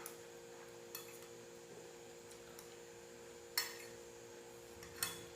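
A spoon clinking against a dish of canjica a few times, once about a second in, most sharply past three and a half seconds, and again near the end, over a steady hum.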